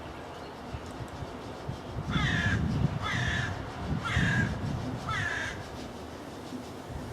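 A crow cawing four times, about once a second.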